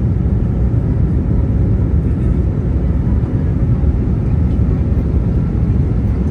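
Steady cabin noise of an Airbus A321neo in flight: a continuous low rumble of engines and airflow with faint steady tones above it.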